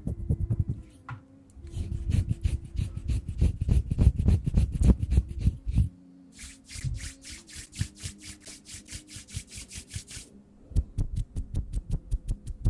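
Hand sounds close to the microphone: rapid patting and finger fluttering, low and thudding at first, then a crisper, higher patter from about halfway, and quicker light taps near the end. A faint steady hum runs underneath.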